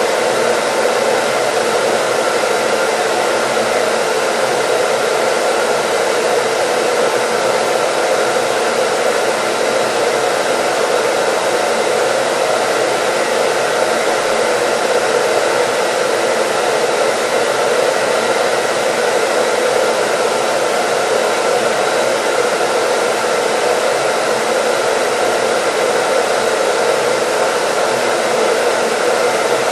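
Hair dryer running steadily: a constant rush of air with a faint motor whine, unchanging throughout, played as white noise.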